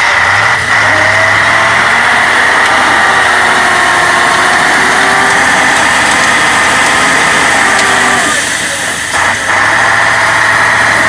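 Truck engine running steadily at raised revs, its pitch falling away about eight seconds in.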